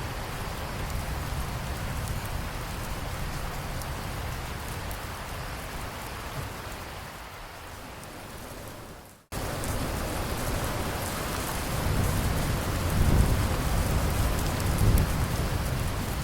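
Steady heavy rain falling. About nine seconds in it fades and cuts out for an instant, then comes back louder, with low rolling thunder rumbling through the second half.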